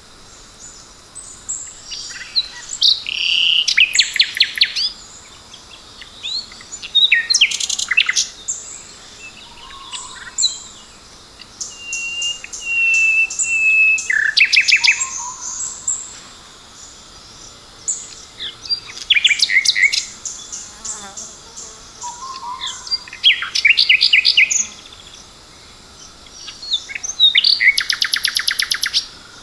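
Several songbirds chirping and singing, with bursts of rapid trills and short chirps every few seconds over a quiet, steady background.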